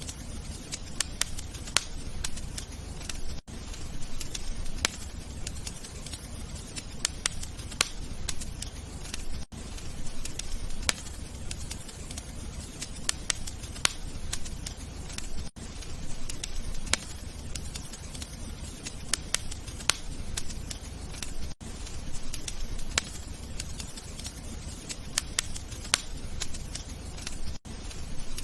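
Wood fire crackling: irregular sharp pops and snaps over a steady low rumble of burning. There is a brief gap about every six seconds, where a short recording loops.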